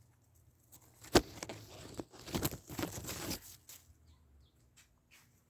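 A sharp click about a second in, then rustling with a few light knocks for about two and a half seconds.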